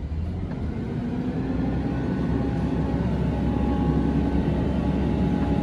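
Engine of a Peterbilt garbage truck running, with a steady low rumble and a hum that comes in about a second in, growing slowly louder as the engine picks up.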